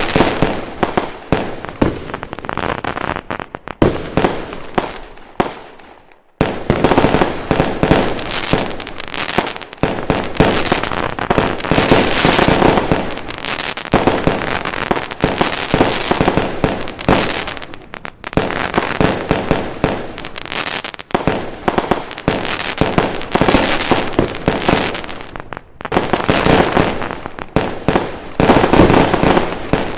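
Fireworks going off in a dense, continuous barrage of bangs and crackles, with a brief lull about six seconds in before they start again abruptly.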